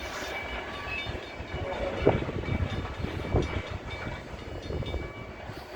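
The last cars of a freight grain train rolling past, a steady rumble with a couple of sharp clunks from the wheels and cars.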